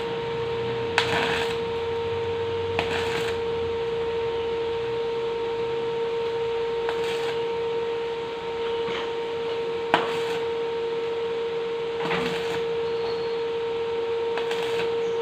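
Electric arc welding on hollow steel tube: a steady crackling hiss with a constant whine from the welding machine, and several short flares and sharp knocks.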